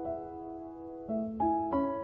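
Soft background piano music: a held chord fading away, then new notes struck about a second in and again near the end.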